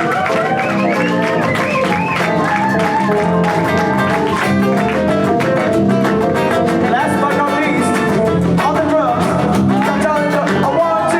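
Live rock band playing a song: guitar and bass over a steady drum beat, with a wavering, bending lead melody on top.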